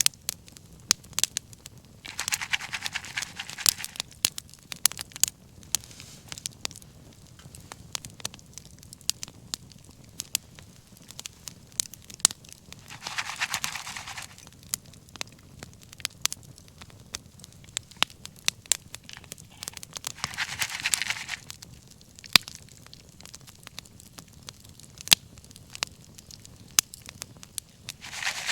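Wood fire crackling, with sharp pops all through and a brief hiss that swells up roughly every seven or eight seconds.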